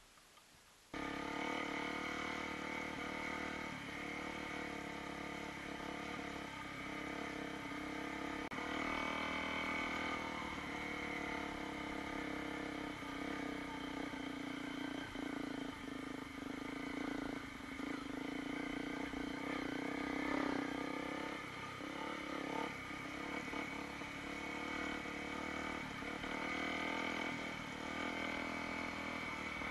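Honda CRF250L dual-sport motorcycle's single-cylinder four-stroke engine running under way on a gravel trail, its pitch shifting up and down with the throttle. It comes in suddenly about a second in, with scattered knocks and rattles over the rough track.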